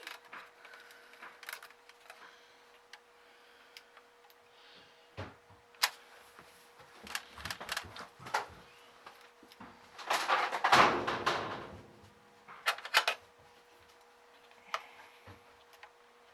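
Hands working on the open TV's internals: scattered clicks and taps, with a louder rustling scrape lasting about two seconds around ten seconds in, over a faint steady hum.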